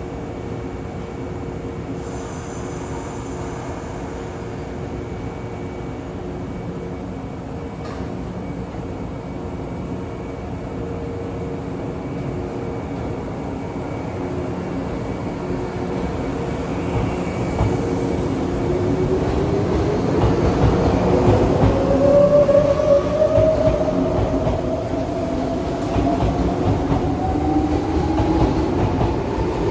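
Izukyu 2100 series electric train pulling out of a station. A steady hum gives way about halfway through to a motor whine that climbs steadily in pitch as it gathers speed, and the wheels click over the rail joints. The sound grows louder as it goes.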